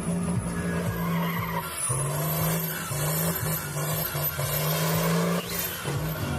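Turbocharged tractor engine running hard under high revs, with a high turbo whistle that rises and falls. The engine note shifts in pitch twice, about two seconds in and again near the end.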